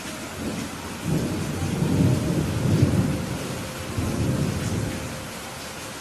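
Steady rain with a rumble of thunder that builds about a second in, is loudest around the middle and fades away before the end.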